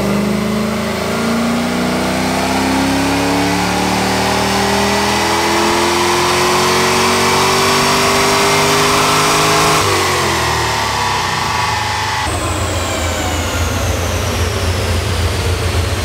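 A 6.0-litre LY6 iron-block V8 with an aftermarket cam and long-tube headers, in a classic Ford Mustang, making a wide-open-throttle pull on a chassis dyno. The engine note climbs steadily in pitch for about ten seconds. Then the throttle closes and the sound falls away to a lower, steady drone as the rollers wind down.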